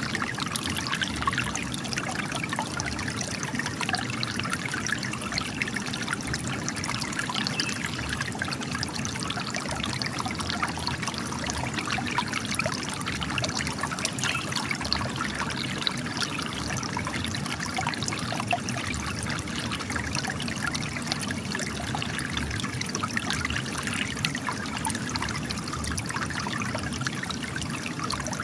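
Spring water trickling and splashing out of cracks in rock, a steady busy patter with no pauses.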